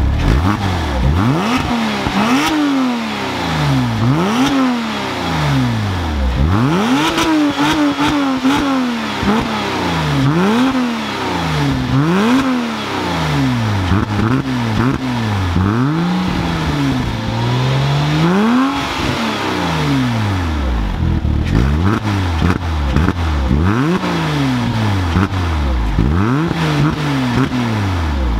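Porsche Cayman S (987) flat-six engine being revved over and over through its freshly modified exhaust, each rev climbing and falling back about every two seconds. The owner hears a slight throatiness and some fuel overrun as it comes off each rev.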